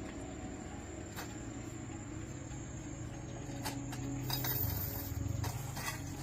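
Scattered light clinks and taps over a steady low hum, the taps coming more often in the second half.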